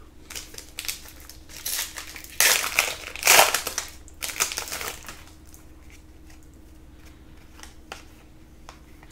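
Crinkling and rustling of trading-card packaging and cards being handled, loudest about two and a half to three and a half seconds in, then only a few light ticks.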